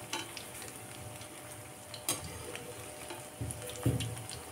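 Small fish pakoras sizzling steadily as they fry in hot mustard oil in an aluminium kadhai. A spoon clicks against the pan about two seconds in, and there are a few soft knocks near the end as the pakoras are turned.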